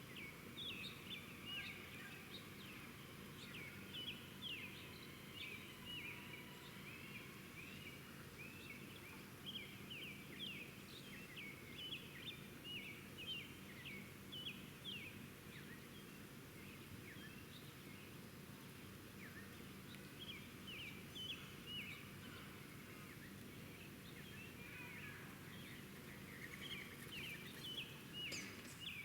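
Small birds chirping in quick clusters of short notes, busiest through the first half and again near the end, over a faint steady background hum.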